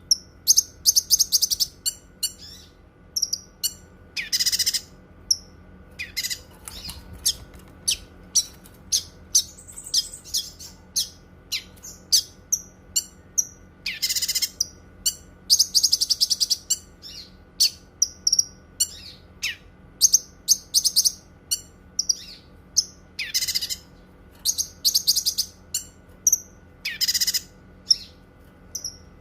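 Cucak kinoi singing: a run of short, sharp, high chirps broken by a few longer, louder notes and rapid buzzy trills.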